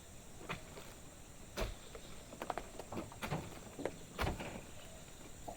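A string of irregular, sharp knocks and thuds, about eight of them spread unevenly, over a faint steady background.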